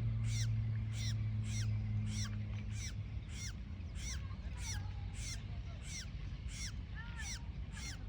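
A bird calling over and over, each call a short note sliding down in pitch, repeated evenly about twice a second. A steady low hum underneath fades out about three seconds in.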